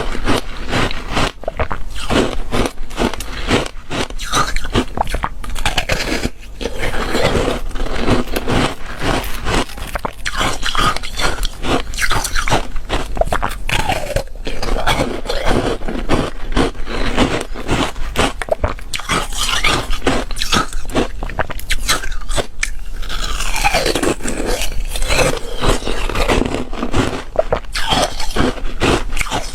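Close-up biting and chewing of foam ice: a continuous run of sharp, crisp crunches.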